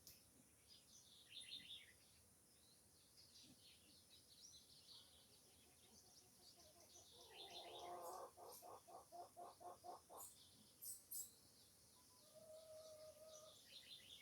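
Faint bird calls: scattered short high chirps, a run of about ten quick lower-pitched pulses in the middle, and a short steady whistle near the end.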